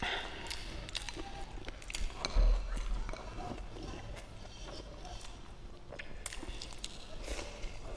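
Close-miked chewing of boneless chicken feet and rice: wet mouth clicks and smacks. A loud low thump comes about two and a half seconds in.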